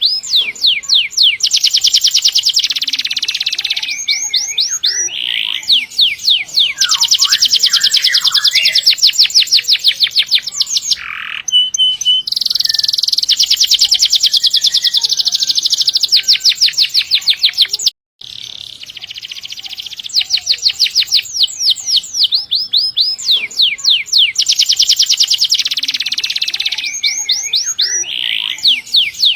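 Domestic canary singing long, fast rolling trills, phrase after phrase of rapid repeated notes. The song drops out for an instant about two-thirds of the way in.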